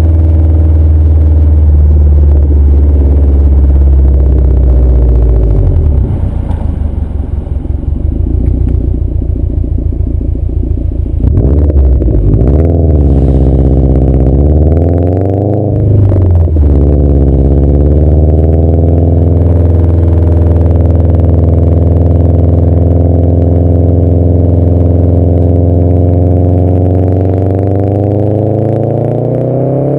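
2011 Subaru WRX's turbocharged flat-four engine running loud through a CNT cat-back exhaust. Its pitch wavers and dips a few times in the first half, then climbs slowly and steadily through the second half as the revs build.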